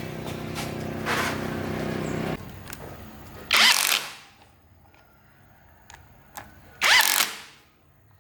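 An engine running steadily, then shutting off about two and a half seconds in, followed by two short, loud bursts of noise a few seconds apart.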